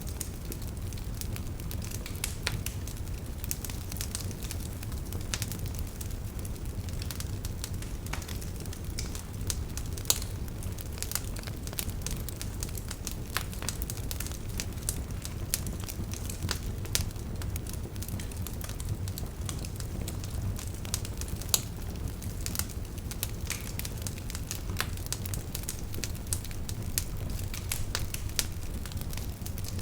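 Campfire crackling, with frequent irregular pops and snaps, over the steady low rush of a river.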